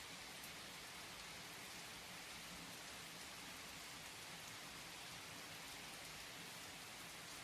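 Steady rain falling, with faint patter of drops and no thunder, played as a soft background sleep soundscape.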